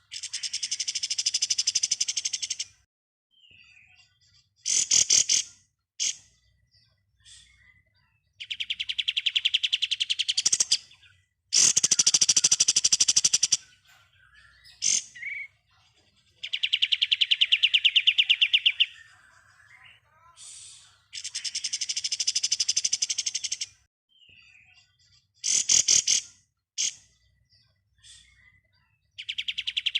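Kapas tembak songbird singing its rapid rattling 'ngebren' chatter: long fast-pulsed phrases of two to three seconds, repeated again and again with short sharp notes between them.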